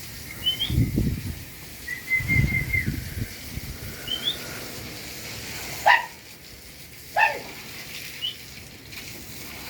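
Pigeons' wings flapping in two loud bursts in the first three seconds, with small birds chirping in short rising notes. Midway come two short, sharp calls about a second apart, the loudest sounds.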